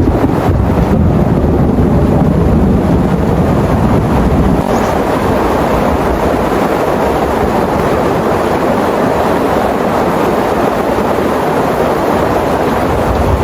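Heavy rain pouring steadily, with a deep rumble in the first few seconds.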